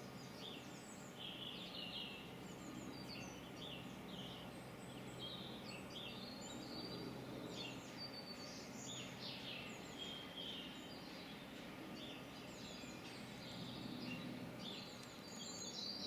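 Songbirds chirping and trilling in many short, varied calls, over a faint steady background hum.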